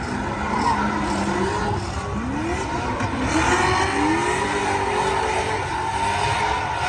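Drift cars on track, engines revving hard with the pitch climbing and dropping again and again over a steady wash of noise.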